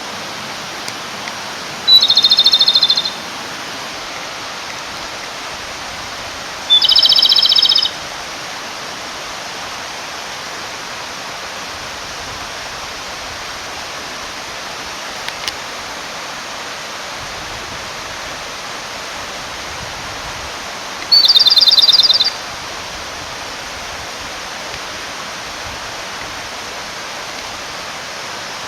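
Male Japanese robin (komadori) singing to call a female: three separate song phrases, each a short lead note followed by a fast rattling trill lasting about a second, well apart. Under them a mountain stream runs steadily.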